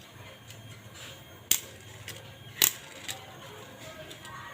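Toy cars clicking against each other or a hard surface as they are handled: two sharp clicks about a second apart, then a fainter one.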